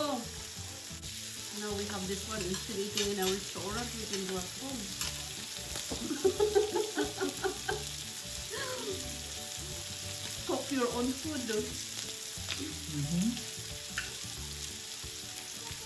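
Pork belly (samgyupsal) sizzling steadily on the hot plate of an electric tabletop grill.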